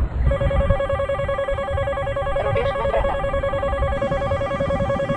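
Missile seeker lock-on tone: a steady, fast-pulsing electronic tone that starts just after the beginning and holds, over a continuous low rumble.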